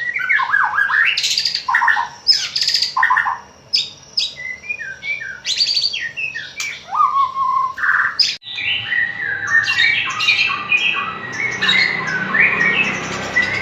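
White-rumped shama (murai batu) singing a loud, varied song of whistled phrases, sliding notes and harsh rapid rattles. About eight seconds in, the recording cuts to a denser run of song with faint steady tones behind it.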